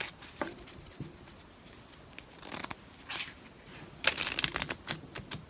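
A deck of tarot cards being shuffled by hand. A few soft flicks come first, then a quick run of rapid snaps about four seconds in, with a few more after.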